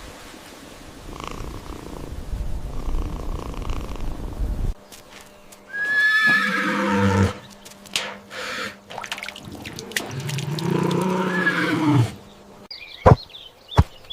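Two drawn-out animal calls, each one to two seconds long and about four seconds apart. They come after a stretch of low rumbling noise that cuts off abruptly about five seconds in.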